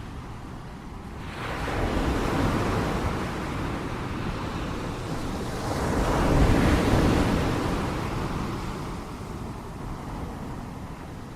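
Ocean waves breaking on a shore. One wave washes in about a second and a half in. A louder one breaks around six seconds in, and each fades away as a long hiss.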